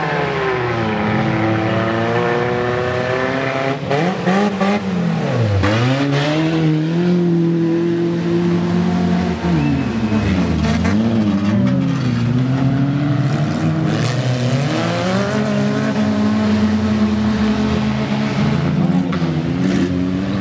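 Wreck-race car engines revving hard and falling back again and again, at times more than one at once, with a few brief knocks.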